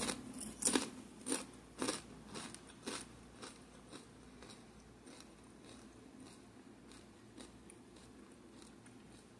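Someone chewing Good & Gather nacho cheese tortilla chips: crunches about twice a second, loudest in the first few seconds, then fading to faint chewing.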